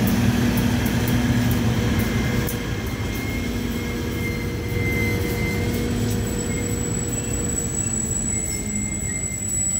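Narrow-gauge passenger coaches rolling past close by, a steady rumble and clatter of wheels on the rails, with a thin wheel squeal that comes and goes.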